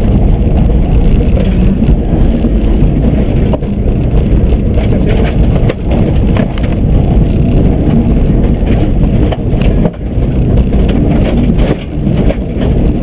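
Subaru rally car driven hard on a loose gravel surface: a steady rumble of engine and tyres with frequent clattering knocks, like stones thrown against the underbody.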